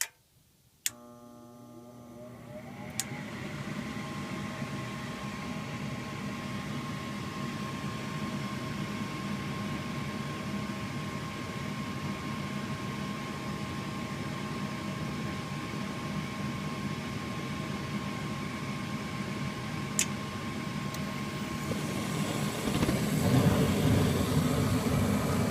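Trane XB80 gas furnace starting a heating cycle and lighting normally: a relay clicks, the draft inducer motor spins up with a rising whine and then runs steadily, a single click sounds about twenty seconds in, and near the end the burners light with a louder, rushing steady sound.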